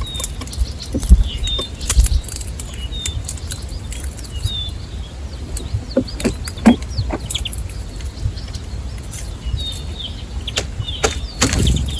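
Small wild birds giving short high chirps, every second or so, among scattered sharp clicks and taps and a few dull low thumps.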